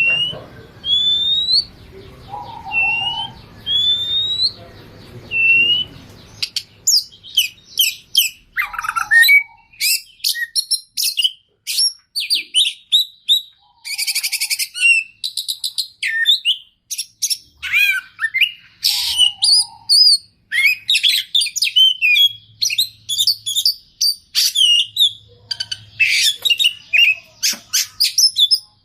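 Oriental magpie-robin singing. It opens with a few rising whistles about one and a half seconds apart, then from about six seconds in breaks into a rapid, varied run of trills, chatters and mimicked notes.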